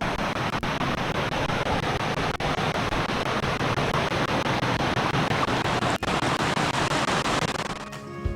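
Steady, loud rush of a fast-flowing mountain stream. It fades near the end as plucked guitar music comes in.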